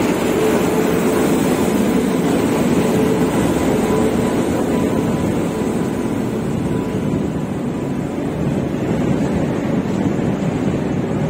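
Passenger coaches of a long-distance express rolling past close by: a steady rumble and rattle of wheels on the rails, with a faint steady hum that fades out about halfway through.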